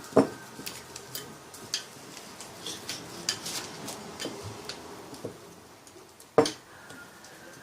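Spoons stirring slime mixture in bowls, with small clicks and scrapes against the bowl and two louder knocks, one just after the start and one near the end.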